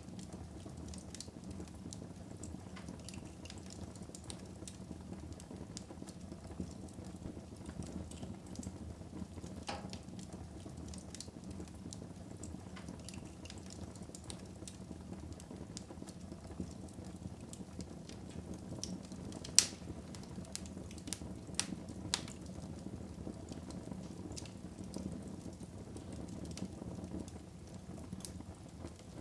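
Wood fire burning in a fireplace: a steady low rush of flames with scattered crackles and pops, the loudest pop about two-thirds of the way through followed by a few smaller ones.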